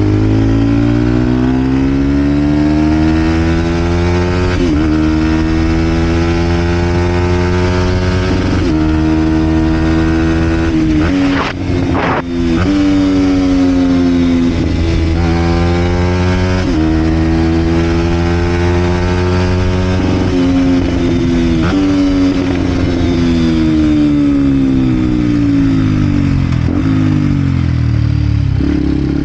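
Vent Derapage 125 four-stroke single running through a full Scalvini aftermarket exhaust, accelerating through the gears. The pitch climbs and drops at each of several upshifts, with a brief break about a third of the way in. Near the end it falls away as the bike slows, then climbs again.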